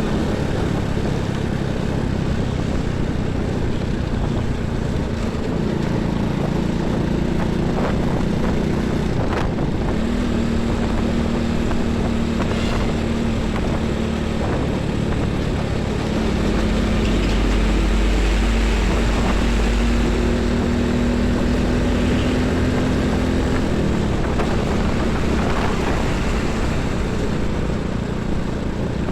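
Heavy highway traffic passing close by: truck and bus engines droning, with tyre and road noise. Engine tones come and go as vehicles pass, and a heavy vehicle's deep rumble swells past the middle.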